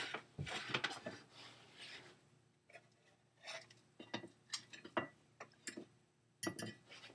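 Light scraping, then scattered sharp clicks and taps of kitchen utensils against a pan and plate as cooked chicken is dished up and garnished.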